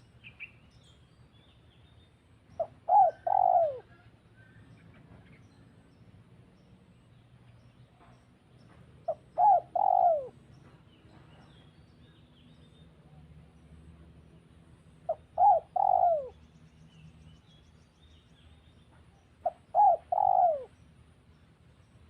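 A dove cooing in four phrases, about six seconds apart. Each phrase is a short note followed by two longer coos that fall in pitch.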